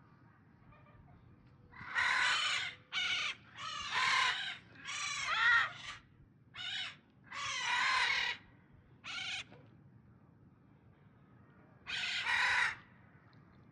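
Macaws squawking: a run of loud, harsh calls from about two seconds in to about nine seconds, then one more short burst near the end.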